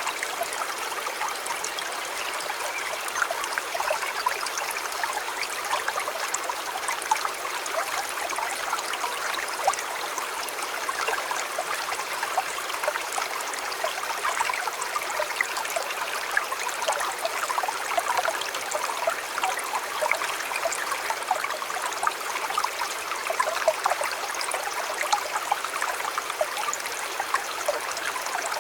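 A river flowing steadily: an even rush of water full of many small splashes and trickles.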